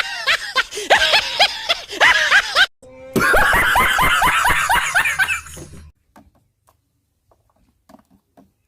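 High-pitched cartoon-style laughter sound effect for a couple of seconds, then a short burst of music that stops about six seconds in, followed by near silence.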